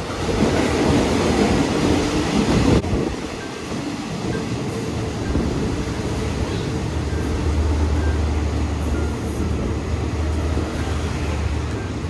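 Passenger train running on the rails, a steady rumble of wheels and carriages. A louder stretch in the first three seconds cuts off suddenly, and a low hum comes in through the middle.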